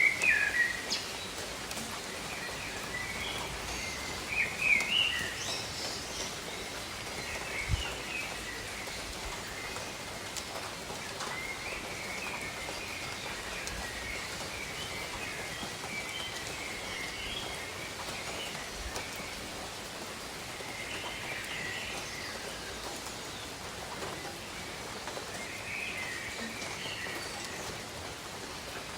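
Steady tropical rain, with birds chirping on and off over it; the calls are busiest near the start and again about five seconds in. A single dull knock comes about eight seconds in.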